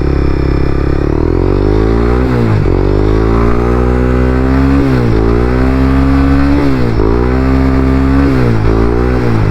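Honda CBR300R's single-cylinder engine running under acceleration, its pitch climbing and then briefly dropping and recovering four times, about every two seconds, as the rider changes gear.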